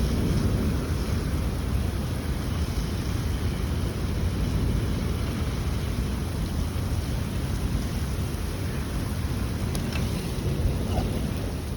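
Thunderstorm with steady wind and rain, wind buffeting the microphone into a constant low rumble.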